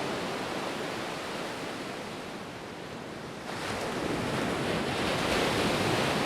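Ocean surf washing onto a beach: a steady rush that eases off, then swells up again a little over halfway through as another wave comes in.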